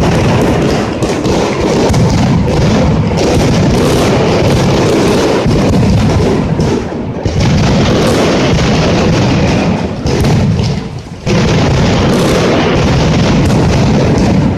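Mascletà firecrackers going off in a dense, continuous barrage of overlapping bangs, easing briefly about eleven seconds in before the barrage picks up again.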